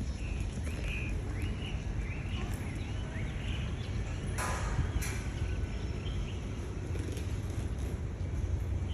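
Outdoor ambience: a steady low rumble with a run of short bird chirps over the first few seconds, and two brief noisy bursts about halfway through.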